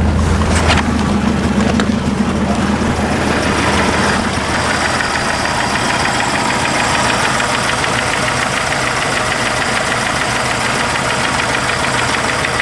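1976 BMW 2002's four-cylinder engine idling just after a cold start. A strong low hum for the first few seconds eases into a steady, even idle.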